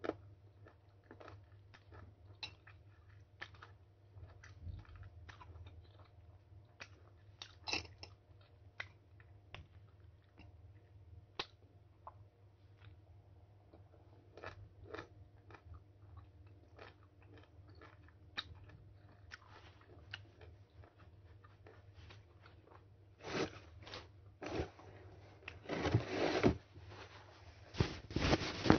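A person biting and chewing firm mango slices close to the microphone, with irregular small crunchy clicks. In the last few seconds come several louder, rustling bursts of noise.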